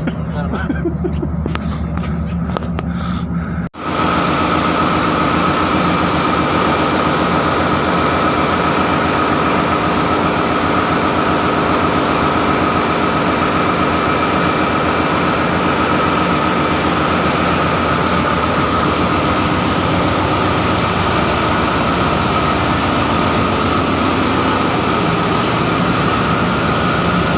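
Ship's engine-room machinery running steadily and loudly, a continuous engine drone with a high steady whine. About four seconds in the sound cuts out for an instant and comes back fuller and noisier.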